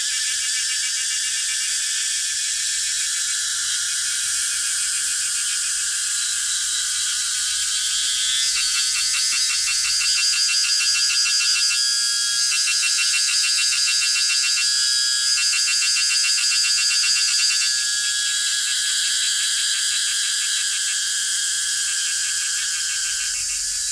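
Chorus of singing insects: a steady, high, rapidly pulsing buzz. A louder, higher pulsing song joins it from about 8 seconds in and stops at about 18 seconds.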